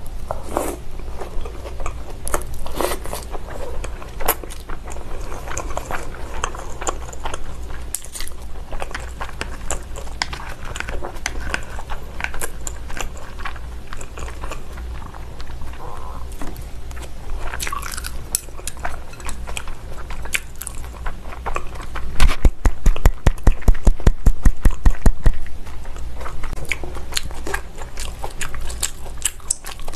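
Close-miked chewing and mouth sounds of a person eating raw salmon sashimi: soft wet clicks and smacks. About 22 seconds in comes a quick run of low thumps, about six a second, lasting about three seconds and louder than the chewing.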